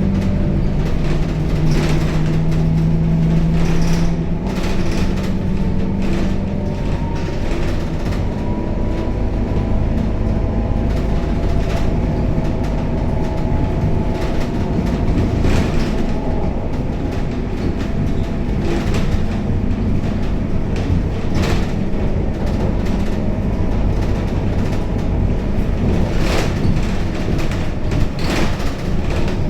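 Scania K270UB city bus heard from inside the cabin while driving: a steady diesel engine drone with whining drivetrain tones, and scattered rattles and knocks from the bus body.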